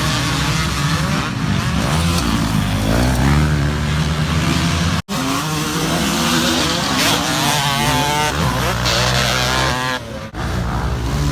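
Two-stroke 125 motocross bike engine revving hard, its pitch climbing and falling back again and again through the gears, with wind rush on a helmet-mounted microphone. The sound breaks off abruptly for an instant about five seconds in and dips briefly near the end.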